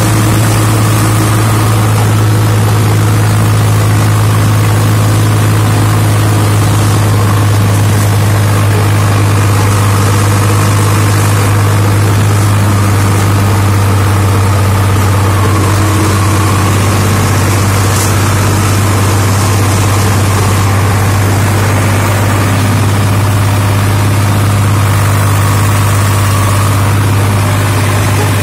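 Tractor diesel engine running loud and steady at an even speed, with a constant low drone.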